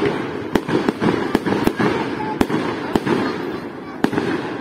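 Fireworks display: a rapid series of sharp bangs over continuous crackling, the noise easing off near the end.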